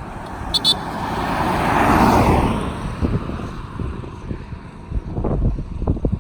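Road noise of a car in motion, heard from inside, with a broad swell that rises to a peak about two seconds in and fades, as of another vehicle passing. Two brief high clicks just after the start and a few short low thumps near the end.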